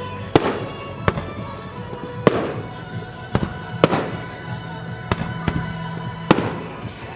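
Fireworks shells bursting: about eight sharp bangs at uneven intervals, each with a short echoing tail, over music playing throughout.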